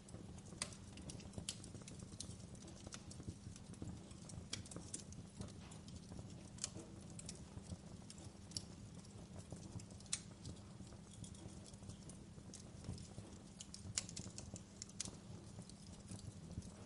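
Wood fire in a fireplace crackling: irregular sharp pops and snaps of burning logs, a few louder than the rest, over a steady low rumble of the flames.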